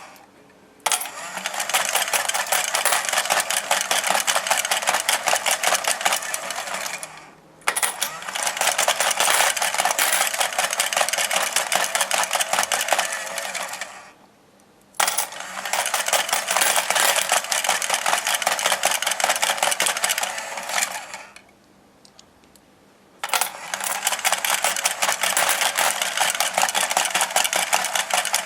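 Battery-powered dog coin bank's motor-driven chomping mechanism running in four runs of about six seconds each, a dense rapid plastic rattle and clicking as the toy dog gobbles coins from its bowl and lets them drop inside, with short pauses between runs.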